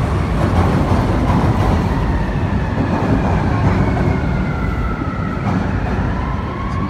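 Passing train's steady low rumble. From about two seconds in, a long high wheel squeal slowly falls in pitch, and a second squeal rises near the end.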